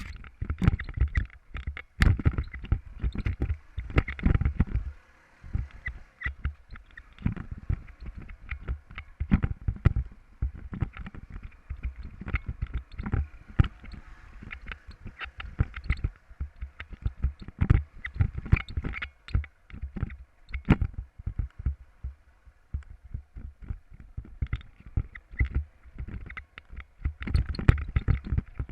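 Uneven low rumbling thumps and sharp knocks on a moving camera's microphone, like wind buffeting and jolts from riding over rough ground.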